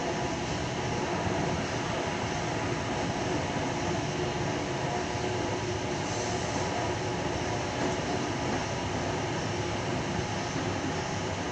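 Steady rolling noise inside a Tangara electric train carriage on the move, wheels on rails with a faint steady hum from the motors.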